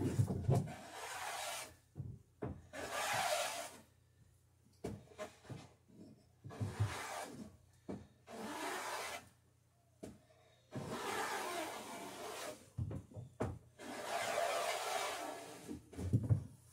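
A hand tool worked in long strokes along a wooden boat rail: about six scraping strokes of a second or so each, with short knocks between them as the tool is lifted and set down.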